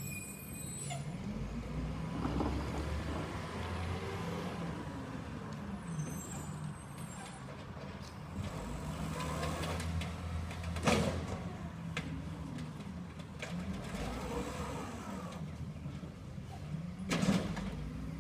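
Garbage truck's diesel engine running with its revs rising and falling, and two short sharp bursts of noise, the loudest sounds, about eleven seconds in and again near the end.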